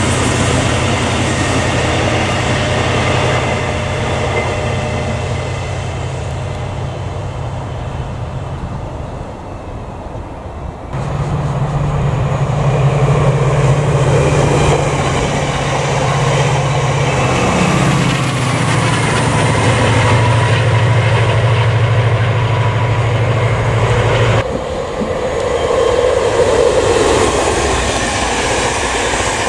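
Passenger trains passing at speed, with wheel and rail noise, cut together one after another. First a TransPennine Express Class 68 diesel locomotive hauling its coaches. About eleven seconds in comes another train whose low engine note drops in pitch as it passes. Near the end an LNER train of red-and-white coaches rushes by.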